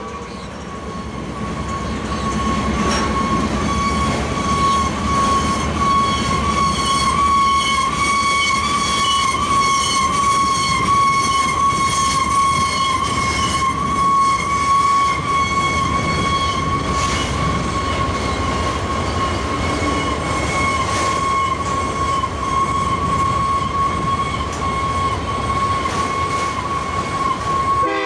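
Freight train cars rolling past over a grade crossing: a steady rumble with wheel clicks under a continuous high-pitched squeal.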